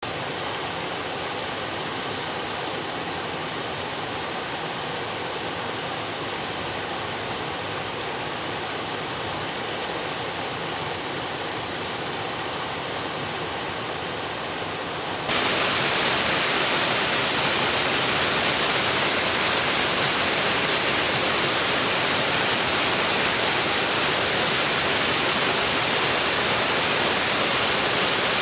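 Mountain river rushing: a steady hiss of flowing water that suddenly becomes louder and hissier about halfway through, then stays steady.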